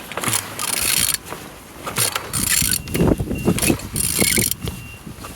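Used engine being turned over by hand with a wrench, in three strokes of mechanical clicking and grinding, each half a second to a second long. The engine turns freely, which the seller takes as a sign that it is in good order.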